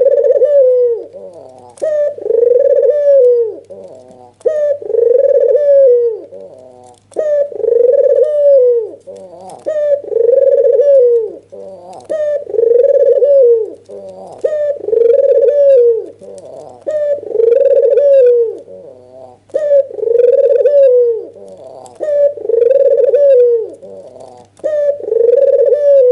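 A white, red-eyed Barbary dove (puter) giving its excited bowing coo over and over: one long coo about every two seconds, each rising and then falling in pitch.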